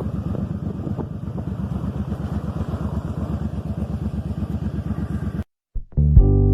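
Motorcycle engine running steadily at low revs with an even, rapid pulse. It cuts off suddenly near the end and guitar music starts.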